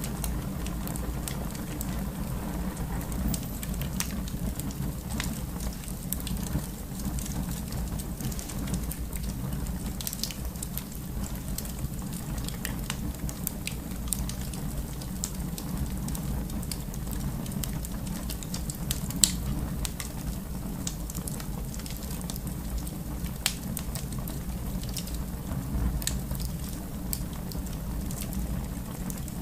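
Wood fire burning in a fireplace: a steady low rumble of flames with scattered crackles, and one sharper pop about two-thirds of the way in.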